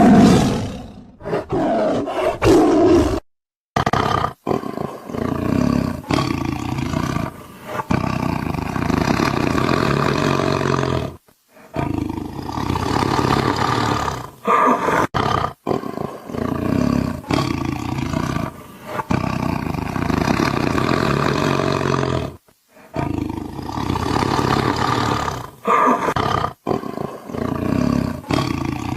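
Bengal tiger roaring and growling in a long, loud series of roars. It starts abruptly and cuts to brief silence three times, as edited sound-effect audio does.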